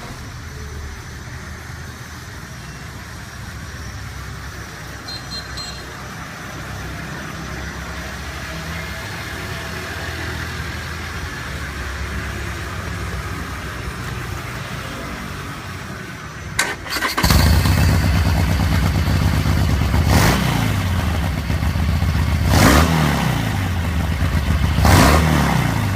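A 2016 Harley-Davidson's V-twin engine started about two-thirds of the way in, catching at once and running loud, with three quick throttle blips that rise and fall in pitch. Before it starts there is only a quieter low rumble.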